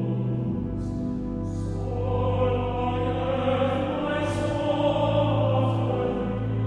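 Choir singing slow, sustained notes, with a few brief sung consonants breaking through.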